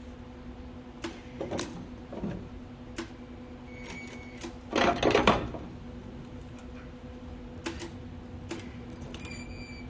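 Flux-core wire welder humming steadily while the arc is struck in short sputtering tries, with one louder crackle of about half a second about five seconds in; the arc keeps failing to hold, which the welder then puts down to the ground clamp.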